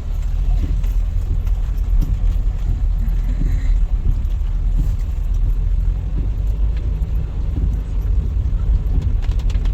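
Car driving on a wet road, heard from inside the cabin: a steady low rumble from the engine and tyres.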